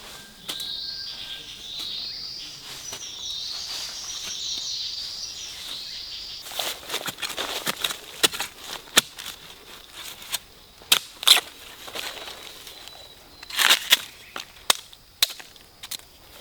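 A bird calling over and over with short rising chirps. These stop suddenly and give way to irregular crunching, snapping and crackling in dry leaf litter and twigs, like footsteps and hands working through fallen leaves.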